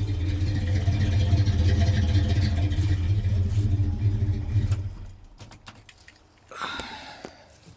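1978 Ford F-250 engine idling steadily, then shut off about five seconds in. A few short clicks and a brief jingle, like keys in the ignition, follow near the end.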